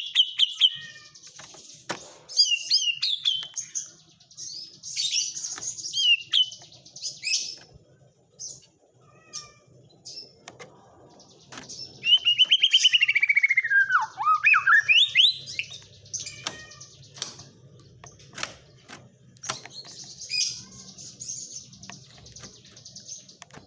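White-rumped shama (murai batu) singing a varied song of rapid trills, chattering and sharp single notes, with a loud run of quick notes about halfway through that slides down and then climbs back up. Its song is filled with phrases learned from the kapas tembak.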